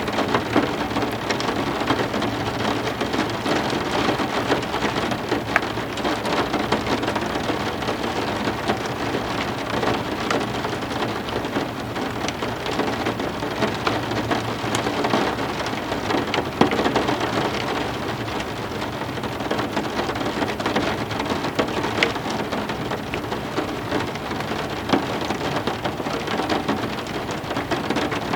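Heavy rain falling steadily, a dense even hiss with many sharp individual drop hits.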